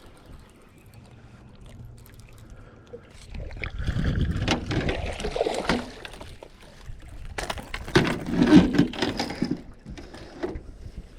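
Water splashing beside a boat in two loud bursts of a couple of seconds each, about three seconds apart.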